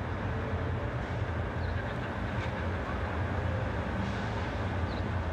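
Large truck engine idling steadily, a low continuous rumble.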